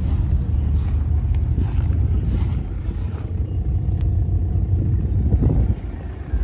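Car engine running with a low, steady drone.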